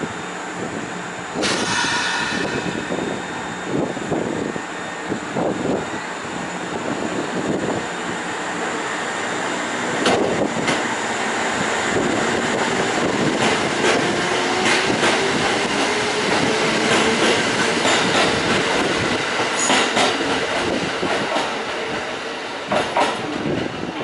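A train running on the rails, its wheels clacking over the rail joints, growing louder partway through. A faint whine slowly rises in pitch in the second half.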